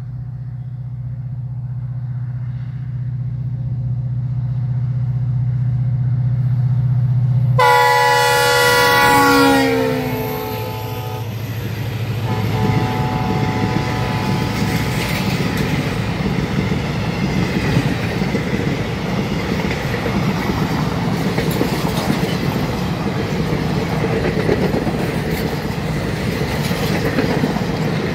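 Passenger train approaching, its locomotive's low drone growing steadily louder, then a horn blast about eight seconds in that lasts about two seconds and drops in pitch as the locomotive goes by. After that the long rake of coaches rolls past with a steady rumble and rhythmic wheel clatter over the rail joints.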